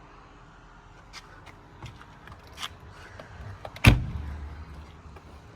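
A door of a 1972 Mercedes-Benz 300SEL 4.5 being shut, one solid thump about four seconds in with a low dying rumble after it, preceded by a few light clicks and handling noises.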